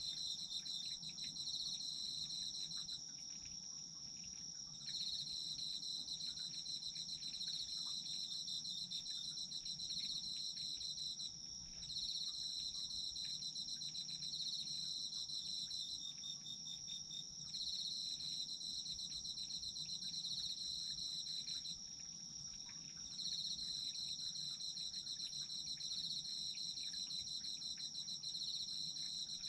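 Autumn insects, crickets, singing at night. One keeps up a steady high trill, while another sings a lower pulsing trill in phrases a few seconds long, broken by short pauses.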